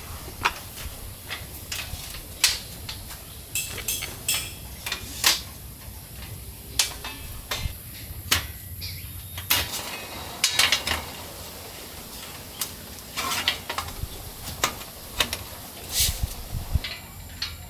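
Irregular clinks, clicks and knocks of hard objects being handled, like camp dishes and utensils, a few each second at the busiest, over a steady low background rumble.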